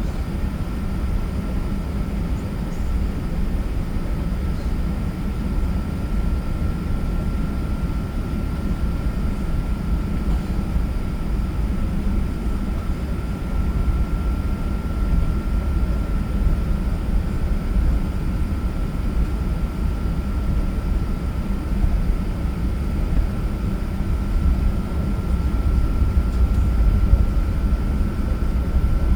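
Steady low rumble of an Airbus A380 heard from inside the cabin, with a faint constant whine over it, growing slightly louder near the end.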